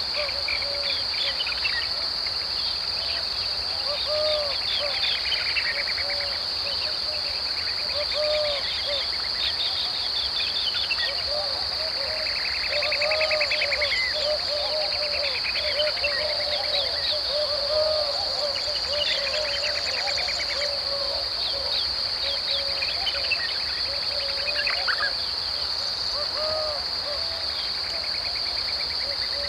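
Dry deciduous woodland ambience: insects keep up a steady high-pitched drone, while birds give short, low, repeated calls and rapid higher trills and chirps throughout.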